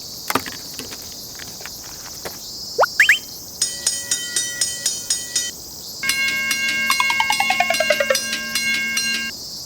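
Cartoon soundtrack of steady high insect buzzing, like summer cicadas, under animated sound effects: short rising whistles about three seconds in, then rapid repeating electronic dings, with a falling run of tones near the end.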